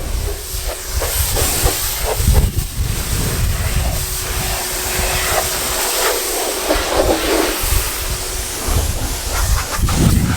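Pressure washer spraying with a steady hiss over the faint hum of its pump, washing mud off a van.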